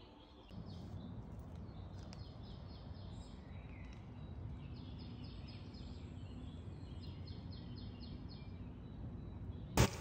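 Woodland birdsong: a bird repeating quick runs of high chirps, each run lasting about a second, over a steady low background rumble. A single sharp click sounds just before the end.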